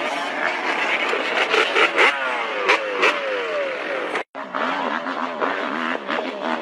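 Motorcycle engines revving. The pitch climbs and drops back several times, like upshifts under hard acceleration, about two to three seconds in. The sound cuts out for an instant a little past four seconds, then another engine runs with a pitch that wavers up and down.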